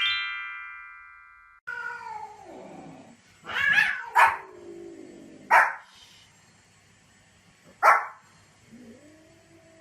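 A chime rises in pitch and rings out. Then come a drawn-out falling whine and a dog barking sharply four times, with pauses of one to two seconds between barks. A wavering whine follows near the end.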